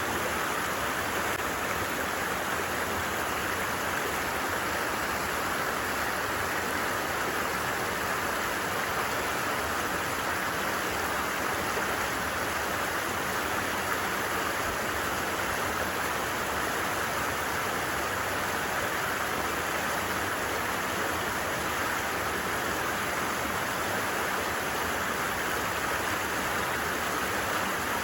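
A stream flowing steadily, an even, unbroken rush of water.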